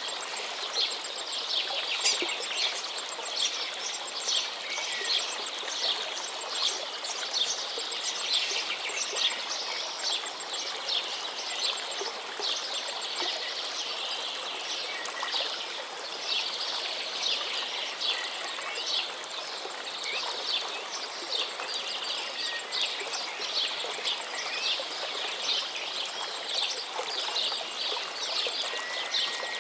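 A chorus of small birds chirping and trilling rapidly and without pause, over the steady rush of running water.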